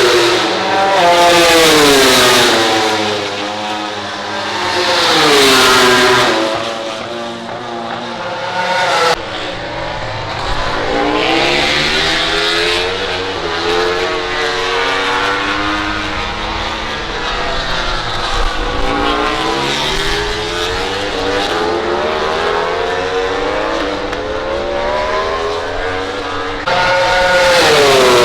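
MotoGP racing motorcycles' high-revving 1000 cc four-stroke engines passing at speed, one after another, the pitch of each sweeping down as it goes by. Several bikes are heard at once through the middle, with a loud pass again near the end.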